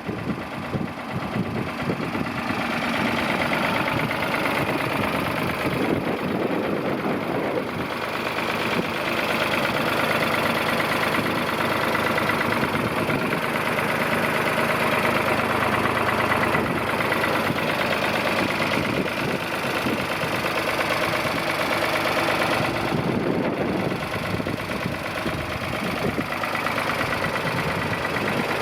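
1973 Ford 2000 tractor's three-cylinder engine running steadily at around idle, a little louder from about three seconds in.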